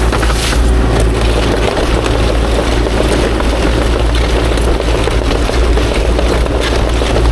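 Kubota KX040-4 mini excavator's diesel engine running steadily, a constant low hum with a wash of machine noise above it.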